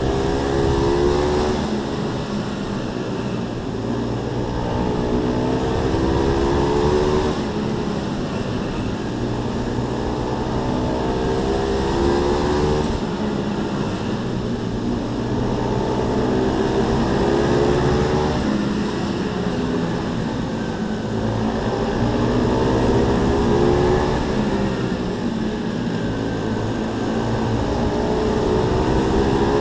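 Pit bike engines racing, revving up and easing off over and over, the sound swelling and fading about every five to six seconds as the bikes come round and pass.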